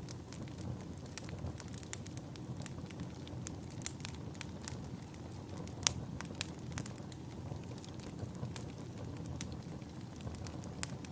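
Wood fire crackling, with many irregular sharp snaps over a steady low rumble of burning. One louder snap about six seconds in.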